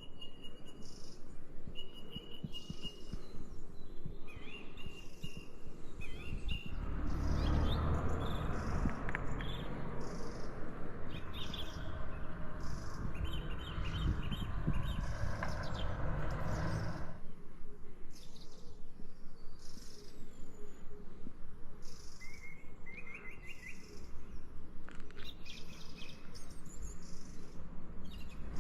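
Small birds chirping and calling over steady footsteps. About a third of the way in, a louder rushing noise rises and lasts about ten seconds before dropping away.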